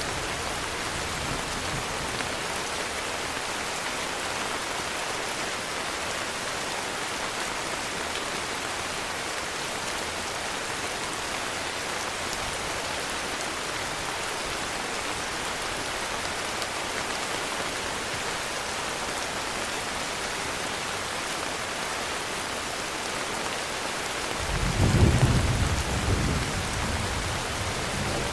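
Steady heavy rainfall, then a low rumble of thunder about 25 seconds in that swells and fades over two or three seconds.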